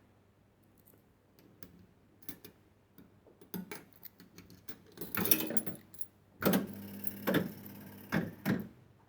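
A 1970s penny-play fruit machine in play: scattered mechanical clicks, then its reels running with a steady motor hum for a couple of seconds, broken by several sharp clunks.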